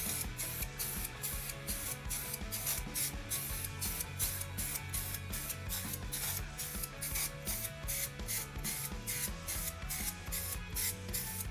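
Air-filter oil hissing from an aerosol can as it is sprayed onto a motorcycle air filter, over background music with a steady beat.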